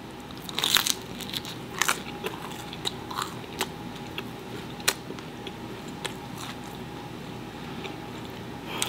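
Close-up eating: a crunchy bite into a consommé-dipped slice of birria pizza about a second in, then scattered crunches and mouth clicks as it is chewed.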